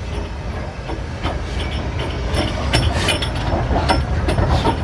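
Train running along the line: a steady low rumble with repeated clicks and clatters of wheels over the rails.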